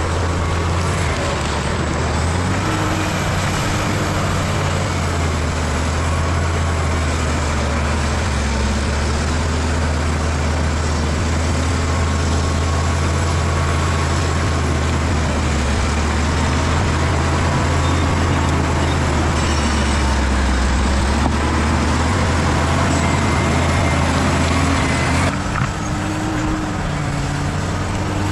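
Bulldozer's diesel engine running steadily, with faint wavering whines above the low drone; the sound dips and shifts briefly near the end.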